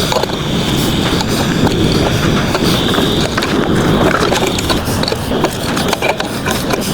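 Sped-up forging of a steel rose: a steady forge roar under a fast, dense run of metallic clicks and rattles as the thin petals are worked.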